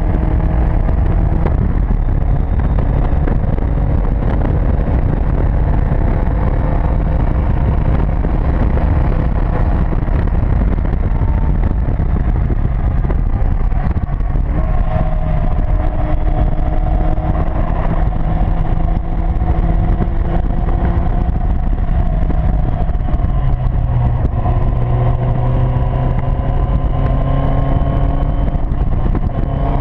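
Onboard sound of an open-cockpit Seven sports car at speed: engine running under heavy wind rumble on the microphone. The engine note rises and falls with the throttle, climbing slowly again over the last few seconds as the car accelerates.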